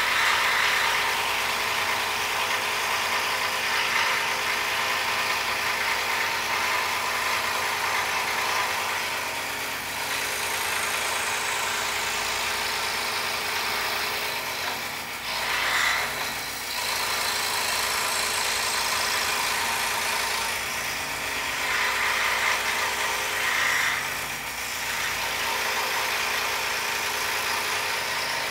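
Scroll saw running steadily, its reciprocating blade cutting through a poplar board, with a few brief swells in level as the cut goes on.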